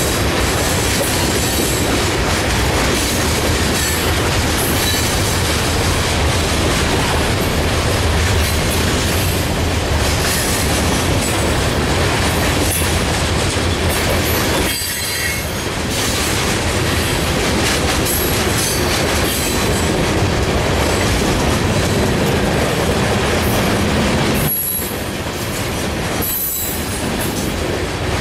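Freight train cars rolling past close by: a steady loud rumble and clatter of steel wheels on the rails, with brief lulls about halfway through and again near the end.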